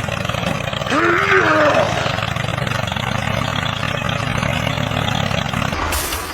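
Tractor engine running steadily, with a short pitched cry about a second in; the engine cuts off shortly before the end.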